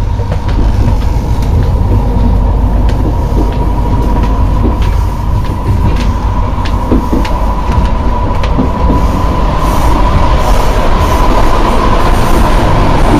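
Interior running noise of an Intercity passenger coach: a steady low rumble of wheels on rail with scattered sharp clicks. A steady high whine grows louder over the last few seconds.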